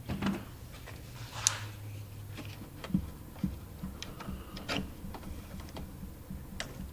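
Scattered light clicks and small knocks of plastic taillight wiring connectors being worked loose and unplugged, over a faint low hum.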